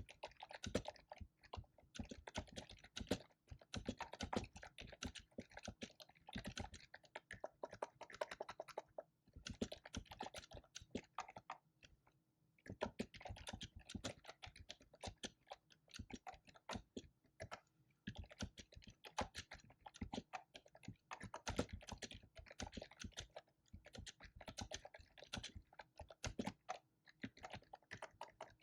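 Fast typing on a computer keyboard: rapid key clicks in runs of several seconds, broken by brief pauses, the longest about twelve seconds in.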